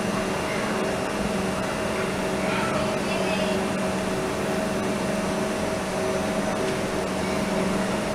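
Stationary electric multiple-unit train standing at a platform, its on-board auxiliary equipment (ventilation and air-conditioning fans) running with a steady hum and hiss and a few constant low tones.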